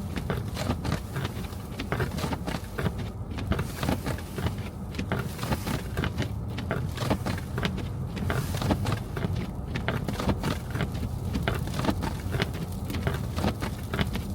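Car driving on snowy streets: a steady low road rumble under a dense, irregular crackle and patter.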